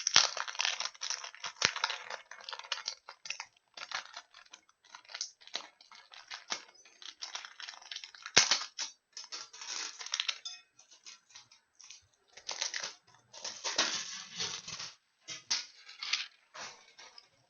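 Packaging being torn and peeled off an aluminium baseball bat: irregular crinkling, rustling and tearing with a few sharper snaps, busiest about a third of the way in and again near the end.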